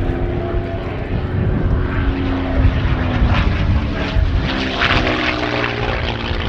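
North American P-51 Mustang's Merlin V12 engine running in a display pass, a continuous propeller-driven engine drone whose pitch sags slightly a couple of seconds in.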